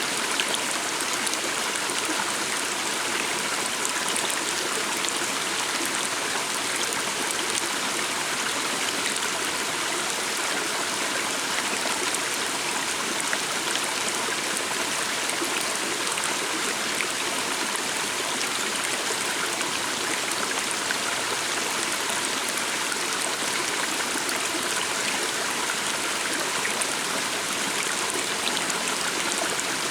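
Calm stream of water running and gurgling with an even, steady rush.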